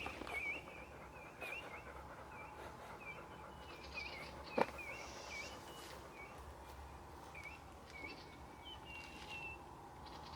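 Birds chirping faintly in a steady run of short notes, with one sharp knock about four and a half seconds in.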